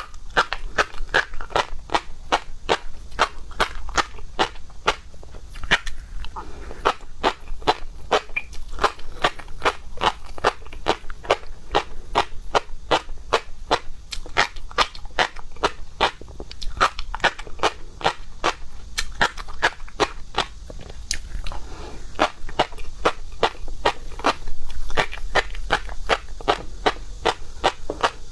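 Close-up chewing of seafood (shrimp and octopus): steady wet crunching and clicking of the mouth, about four bites and chews a second.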